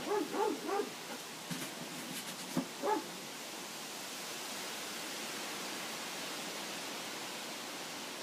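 Kittens mewing: a quick run of about four short mews, then one more mew about three seconds in, over a steady hiss.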